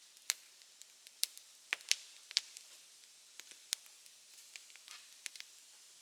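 Open wood fire crackling, with irregular sharp pops and snaps over a faint hiss; a quick cluster of louder pops comes between about one and two and a half seconds in.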